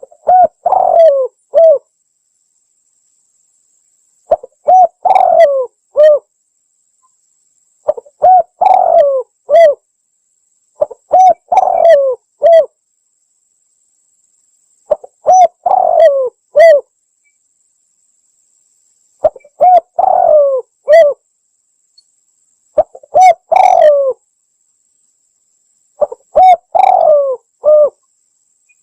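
Spotted dove (tekukur) cooing: about eight short phrases of several quick coo notes, each phrase separated by a few seconds of silence, played as a lure call to attract wild doves.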